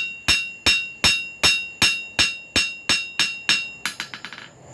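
Blacksmith's hammer striking a hot carbon-steel cut nail on the anvil, flattening the end for a punched hole. About ten evenly paced ringing blows, a little under three a second, then a quick run of lighter taps near the end.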